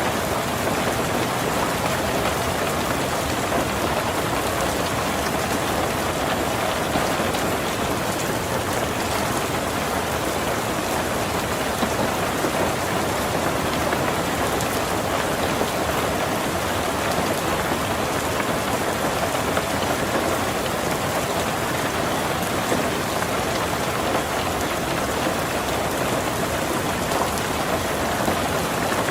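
Heavy rain drumming steadily on a tin roof, a dense even patter with no breaks.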